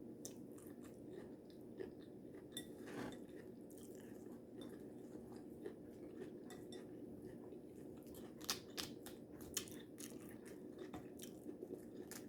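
A person chewing and crunching a mouthful of taco salad with tortilla chips: faint, irregular crunches and wet clicks, coming closer together from about eight seconds in.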